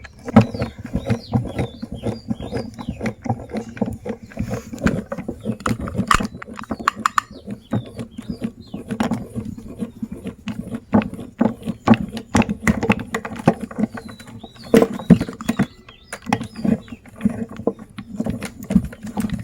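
Hard-candy lollipops being crushed in a meat grinder: continuous irregular cracking and crunching over the grinder's steady running, with occasional short squeaks.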